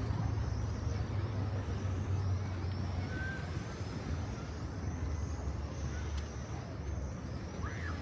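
A motor vehicle's engine running steadily close by: a continuous low hum under general street noise.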